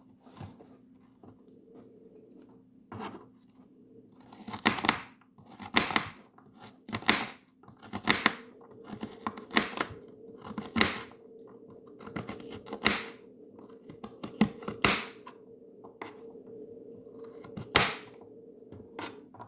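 Knife cutting through baby carrots on a cutting board: a crunchy slice about once a second, with a few pauses. A steady low hum runs underneath.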